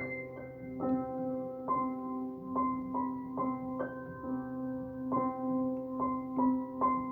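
Slow, gentle piano music: notes and chords struck about once a second, each ringing out over a held low note.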